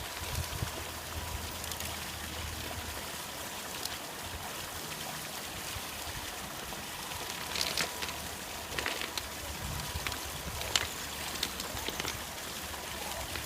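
Creek water running steadily, with a few sharp clicks in the second half.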